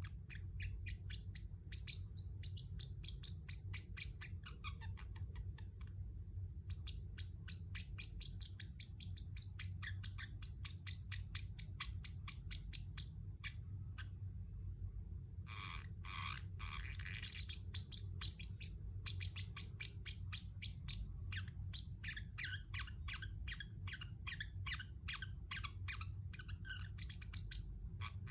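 Pacific parrotlet chirping in rapid runs of short, high chirps, with a louder, harsher call about halfway through. A low steady hum runs underneath.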